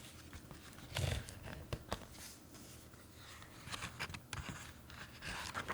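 Faint rustling and a few soft clicks of a picture book's paper pages being handled and turned, in a small room.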